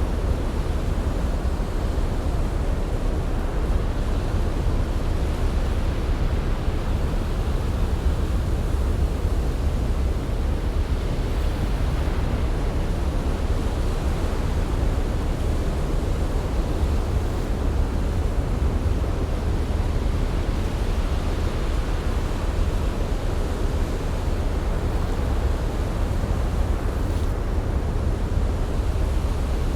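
Ocean surf as a steady, low rushing noise with no distinct breaking waves.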